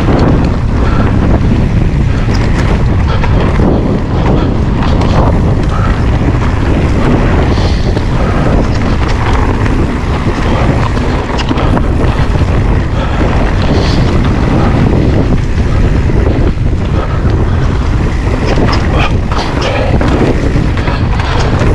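Wind buffeting the camera microphone during a mountain-bike ride: a loud, steady low rumble, with scattered knocks and rattles from the bike running over the trail.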